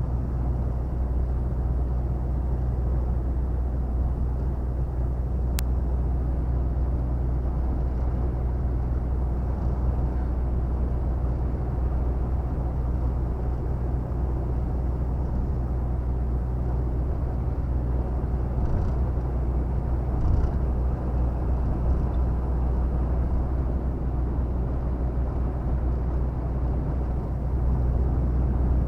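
Volvo FH 460 truck's 13-litre straight-six diesel running steadily on the road, heard as an even low drone from the cab, with one short click about five and a half seconds in.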